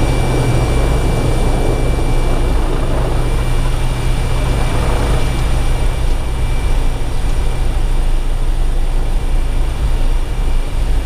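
A steady engine drone, heaviest in the low end, with a faint steady high whine above it.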